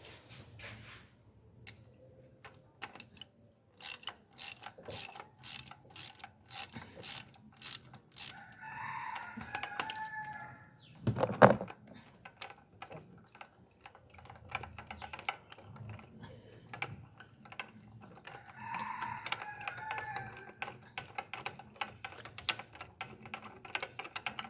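Hand ratchet wrench clicking in quick runs as a fastener on the engine is backed out, with short squeaks and one louder knock about eleven seconds in.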